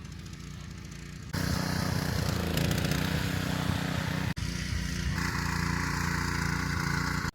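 A small engine running steadily. It gets louder about a second in, and there is a brief dropout about four seconds in.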